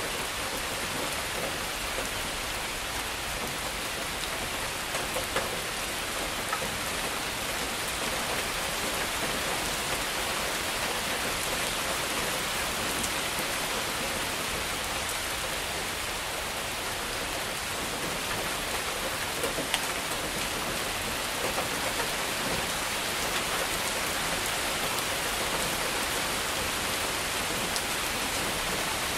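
Heavy rain falling steadily and water running through a gutter, a dense even hiss. A few sharper drop hits stand out now and then.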